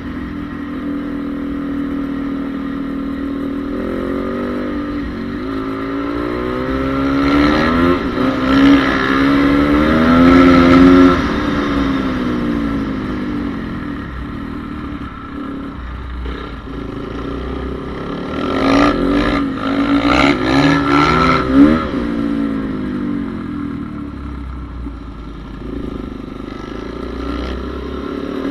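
Honda CRF450R motocross bike's single-cylinder four-stroke engine, revving up and down as it is ridden on a track. It swells loudest twice, about a quarter of the way in and again about two-thirds through.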